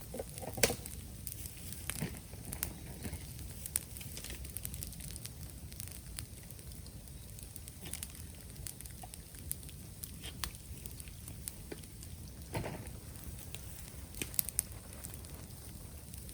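Bamboo burning in a bonfire, crackling with scattered sharp pops; the loudest pop comes about half a second in, and another near the end.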